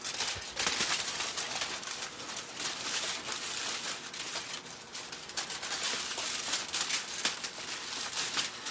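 Aluminium foil crinkling and crackling as a fresh sheet is handled and wrapped, a continuous run of small rustles and sharp crackles.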